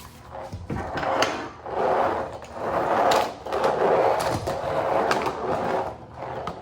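Toy Hot Wheels monster trucks rolling and scraping over a hard surface, several rolls one after another with small clicks and knocks as they are handled.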